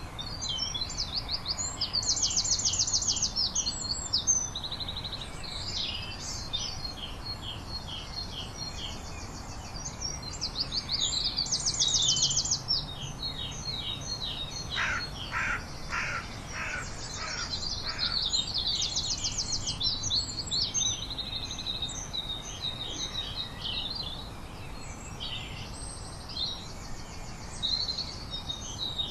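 Several songbirds singing at once, with rapid high trills repeated every few seconds. Around the middle comes a run of about six lower calls that slide downward.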